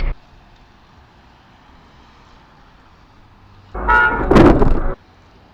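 A car horn sounds for about a second, around four seconds in, with a harsh noisy burst at its loudest, over the faint steady hum of a car on the road.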